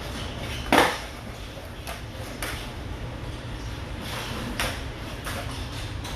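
A sharp knock about a second in, then a few fainter taps and clicks, over a steady low hum.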